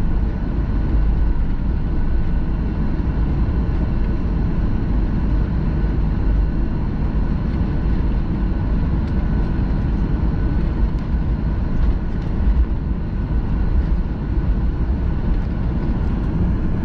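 Steady cabin noise of a jet airliner: a constant low rumble from the engines and airflow, with a faint steady whine above it.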